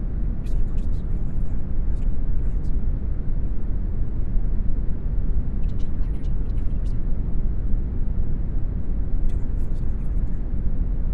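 Steady brown noise: an even, deep hiss with most of its weight in the low end. Faint, brief high ticks come in three short clusters, near the start, in the middle and near the end.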